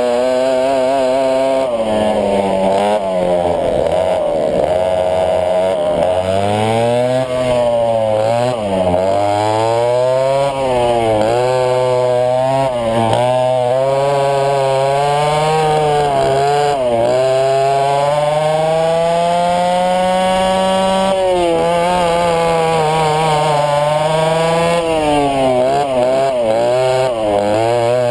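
Twin West Bend 820 two-stroke kart engines at racing speed, their pitch repeatedly rising under throttle and falling off into corners. About two-thirds through there is one long climb in pitch that drops off sharply.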